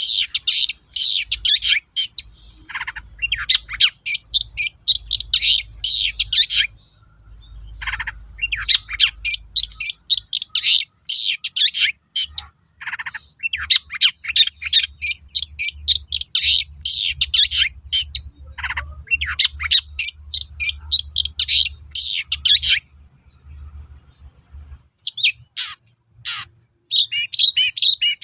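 Long-tailed shrike (cendet) singing a fast chattering song of quick high notes in long phrases, broken by a few short pauses.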